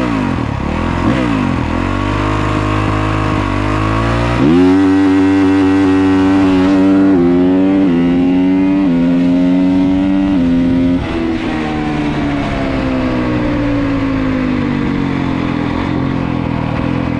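Dirt bike engine blipping at the line, then launched hard about four and a half seconds in: the revs jump and the pitch climbs, steps down and climbs again a few times as it pulls away. About eleven seconds in the throttle closes and the engine winds down with a long falling pitch.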